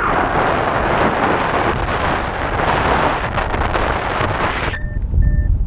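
Airflow rushing over the microphone of a paraglider pilot in flight. About 4.8 seconds in, the rush drops off suddenly to a low buffeting rumble, and a flight variometer's beeps come through, one steady pitch about twice a second: the sign that the glider is climbing.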